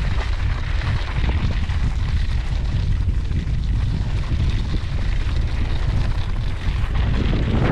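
Wind buffeting an action camera's microphone while cycling: a loud, steady low rumble with hiss above it.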